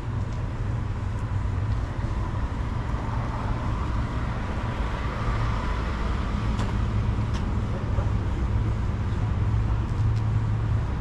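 A car engine idling nearby, a steady low rumble that grows slightly louder.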